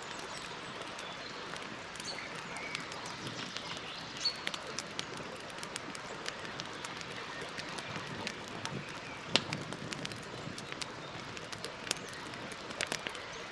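Wood campfire crackling, with irregular sharp pops over a steady hiss; the loudest pop comes about two-thirds of the way in, and a quick cluster of pops comes near the end.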